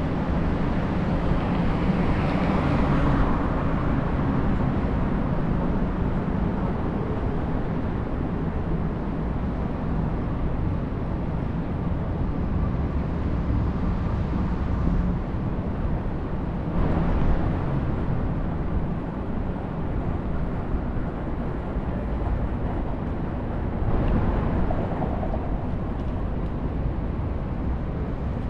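Street traffic and wind rush heard from a moving scooter: a steady low rumble of road and wind noise, with three brief louder swells, about two seconds in, midway and near the end.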